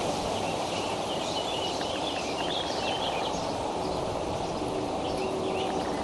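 A bird's rapid, wavering high-pitched chirping and warbling, from about a second in until near the end, over a steady rushing outdoor background noise.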